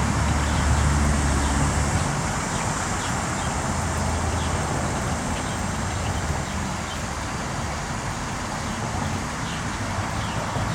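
Passing road traffic: a steady hiss with a low engine hum in the first two seconds and again around four seconds in. Faint short bird chirps repeat throughout.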